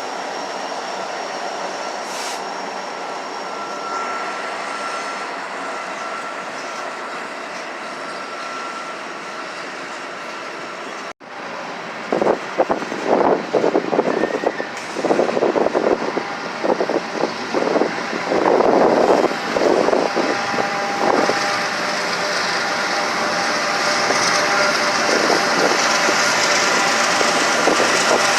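Freight train rolling past on the rails, a steady rumble of wheels on track. About eleven seconds in the sound cuts off abruptly and another freight train is heard coming on, with loud uneven surges and then a rising rush as it draws near.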